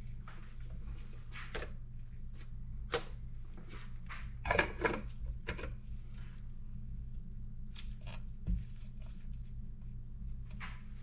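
Scattered light knocks and clatters of things being handled, over a steady low hum.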